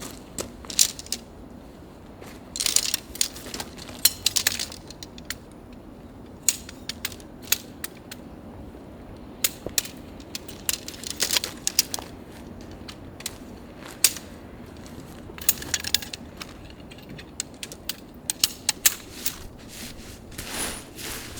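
Irregular sharp clicks and knocks with a few brief rustles, as camping gear is handled while a tent is set up.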